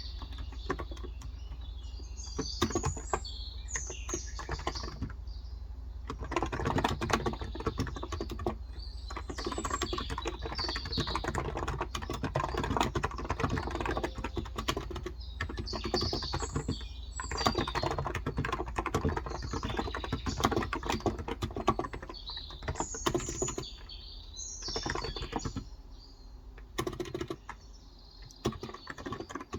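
Fast typing on a Cox Endeavor tenkeyless keyboard with 35 g electrostatic capacitive switches, in runs of keystrokes broken by short pauses, over a steady low hum. Birds chirp several times in the background.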